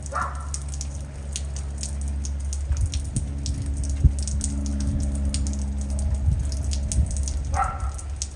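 Light rain dripping, with many irregular close drops ticking and tapping, over a steady low rumble. A brief squeak at the start and again near the end.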